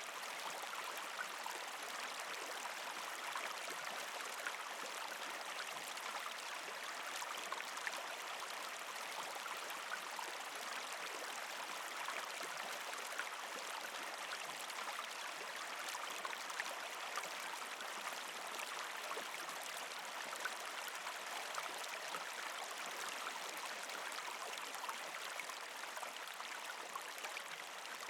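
Partially frozen creek flowing: a steady stream of water trickling and gurgling over rocks, with many small splashes and drips.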